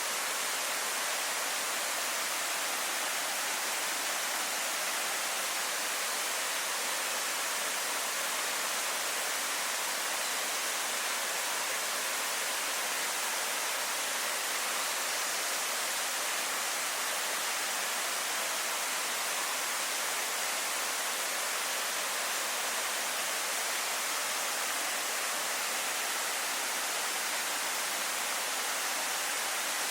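Waterfall: water falling, a steady rushing hiss that does not change.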